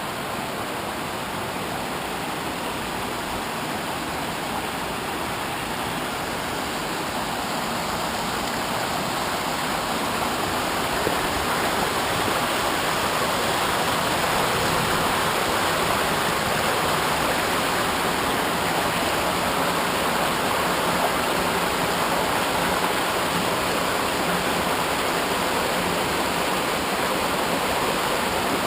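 Steady rush of water from a waterfall and its stream. It swells louder over the first ten seconds or so, then holds steady.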